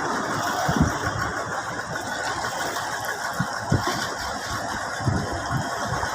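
Engines running steadily, with a few short low thumps mixed in.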